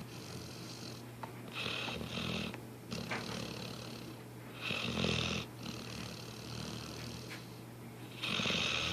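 A sleeping dog snoring: three snores about three seconds apart, with quieter breathing between them.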